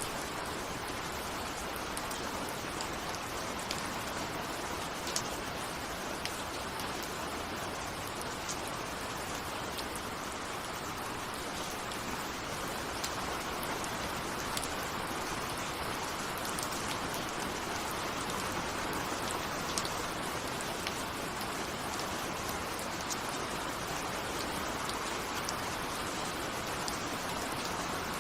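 Steady rain with the sharp ticks of single drops striking a window. It is a continuous even hiss, with no thunder and no music.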